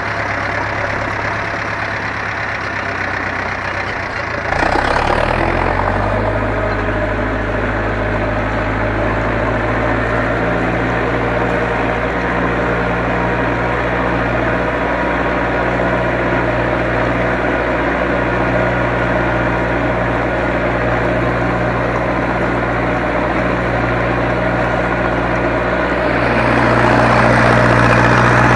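Zetor 7245 tractor's four-cylinder diesel engine running steadily at work. About four seconds in, its note drops lower and gets louder, and it grows louder again near the end.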